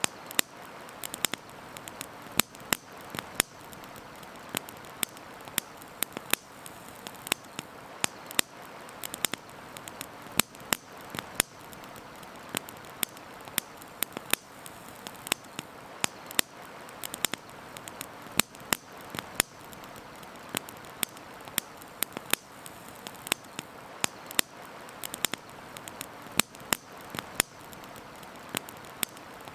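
Wood campfire crackling: sharp, irregular pops and snaps, several a second, over a steady hiss.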